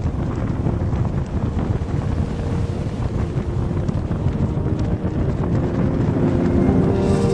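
Wind buffeting the microphone over the low rumble of a moving boat. Music fades in near the end.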